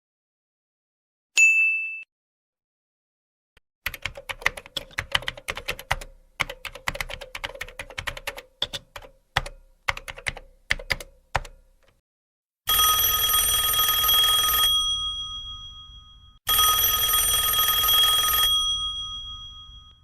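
A short high ding, then typing on a keyboard, a quick run of irregular key clicks for about seven seconds. After that a telephone bell rings twice, each ring about two seconds long.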